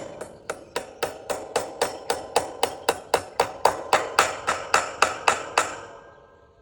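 Hammer driving a fence staple into a wooden frame to fix a cattle panel: a fast, even run of ringing blows, about four a second, getting louder and then stopping near the end.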